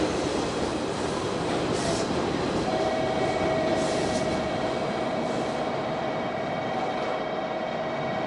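JR Kyushu 885 series electric train running past at low speed, a steady rumble with a few faint clicks of wheels over the rail joints. From about three seconds in, a steady high whine joins and holds.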